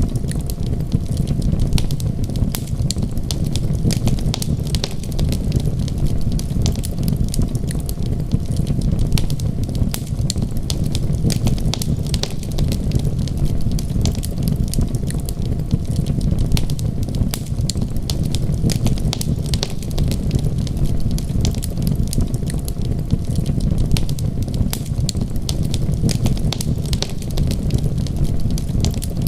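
Wood fire crackling in a fireplace, with many small sharp snaps over a steady low rumble.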